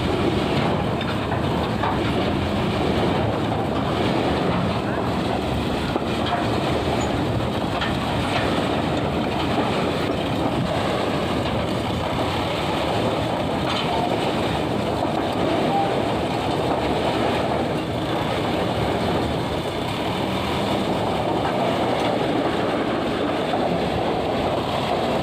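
Dump truck running with a steady engine drone and a continuous rattle from the loaded body.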